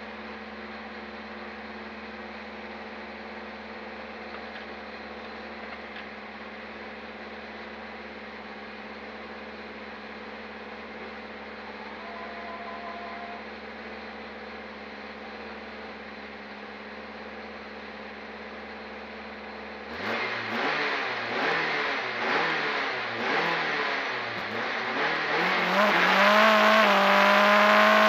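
Peugeot 205 race car's four-cylinder engine idling steadily, heard from inside the cabin. About twenty seconds in it is suddenly revved in quick blips, and a few seconds later it climbs steadily in pitch and loudness as the car launches off the start line under hard acceleration.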